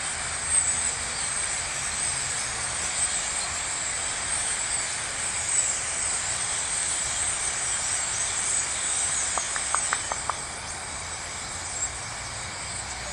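Massed chatter of a large flock of birds settled into roosting trees at dusk, a dense, steady wall of sound with a few single calls standing out near the end.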